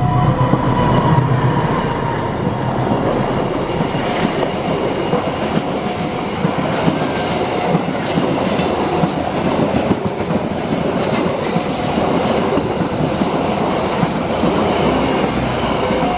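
A train rolling past at close range, steady loud wheel-on-rail noise with clickety-clack over the joints. Short repeating chime tones of the level-crossing alarm sound faintly over it.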